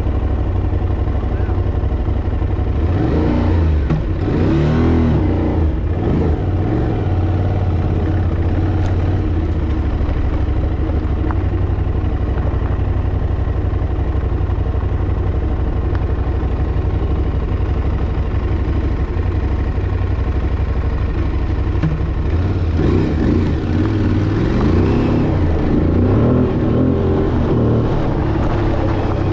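Dirt bike engine running steadily while riding, with the revs rising and falling as the throttle is worked about three seconds in and again near the end.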